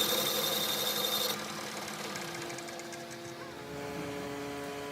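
Workshop machinery running: a loud high hiss with a thin whine for about the first second and a half, then a quieter steady motor hum.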